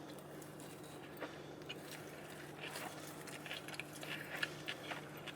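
A person chewing a bite of peach waffle close to the microphone: faint soft mouth clicks and smacks, more frequent in the second half, over a steady low hum.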